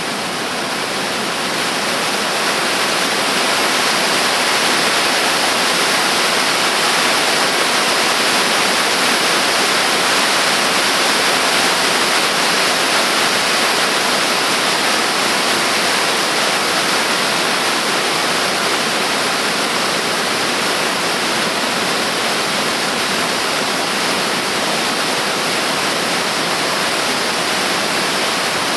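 Yudaki waterfall, a broad cascade sliding down a rock face, rushing steadily as one dense, even wash of falling water. It grows a little louder over the first few seconds.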